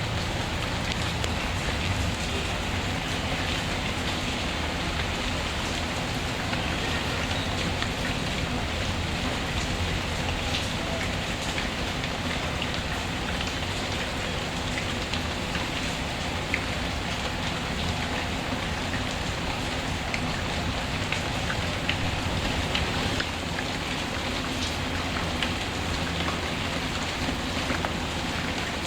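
Steady rain falling, a continuous even hiss, mixed with a crackling fireplace fire giving scattered sharp pops and ticks.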